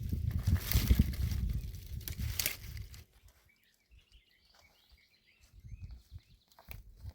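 Outdoor ambience: a low rumble with knocks and scuffs for about three seconds, then faint, short bird chirps.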